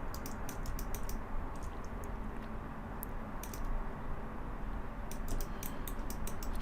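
Computer keyboard and mouse clicking in quick irregular clusters, as shortcuts are tapped, over a steady low background hum.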